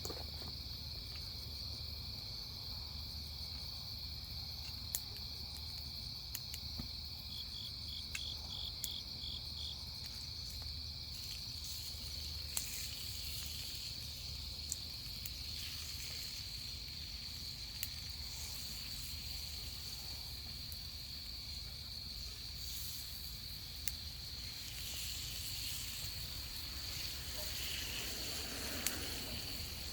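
Crickets singing on an autumn night in a steady high trill, with a second insect giving a short run of about three chirps a second near the eight-second mark. A few scattered sharp clicks sound over a low steady hum.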